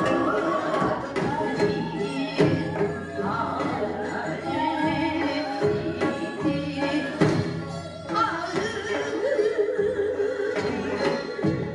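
Korean traditional music accompanying a hallyangmu dance: wavering melodic lines with wide vibrato over struck drum strokes.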